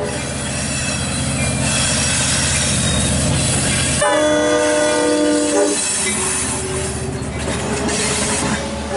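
Diesel commuter train running with a steady low rumble, its multi-tone horn sounding one blast of about a second and a half some four seconds in. After that the wheels squeal as the bi-level coaches roll past.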